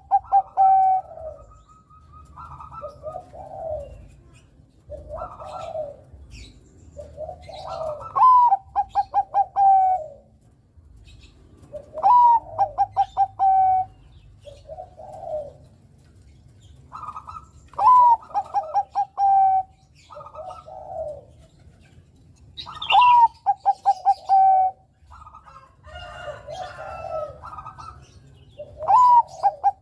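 Zebra dove (perkutut Bangkok) singing its cooing song: a phrase about every five seconds, each a rising note followed by a quick rolling run of coos, with softer single coos in between. Faint high chirps are heard now and then.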